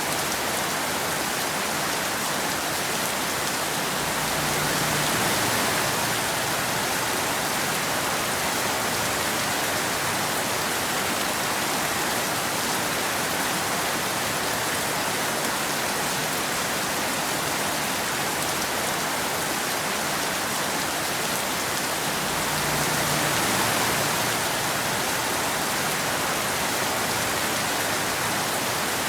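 Steady rain falling as a dense, even hiss. It swells slightly twice, about five seconds in and again about two-thirds of the way through.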